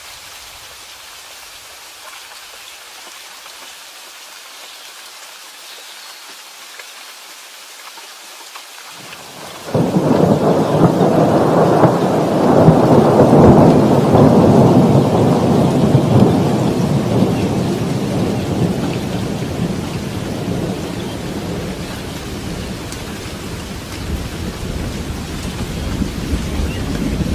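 Steady rain falling, then about ten seconds in a sudden loud crack of thunder that rolls into a long rumble, slowly dying away and swelling again slightly near the end.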